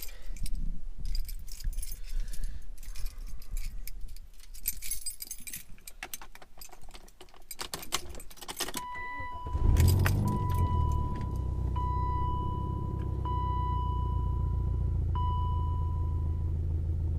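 Keys jangling and handling clicks, then a car's warning chime pinging in repeated tones, and about ten seconds in the engine cranks and starts, settling into a steady low idle. The exhaust is leaking, cracked through at the Y-pipe and around the oxygen sensor.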